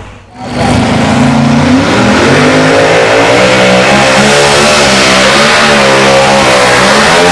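Pulling tractor's engine running loud at full throttle, its pitch climbing in steps over the first couple of seconds and then wavering up and down.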